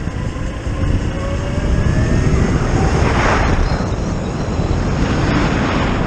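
Zero FX electric motorcycle on the move: a steady rumble of wind and road noise, with the electric motor's thin whine gliding slowly in pitch and swells of hiss about three and five seconds in.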